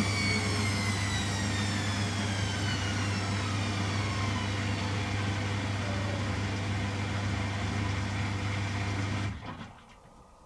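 Beko WTG620M1 washing machine slowing down from a spin: the motor's whine falls steadily in pitch over a steady low hum. The sound cuts off suddenly about nine seconds in.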